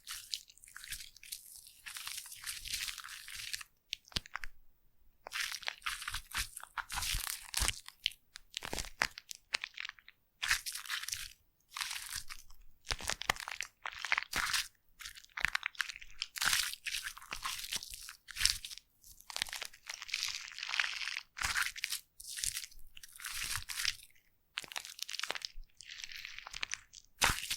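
Foam crackling and popping close to the microphone as it is pressed and worked, in irregular bursts of fine, high crackle with short pauses between them.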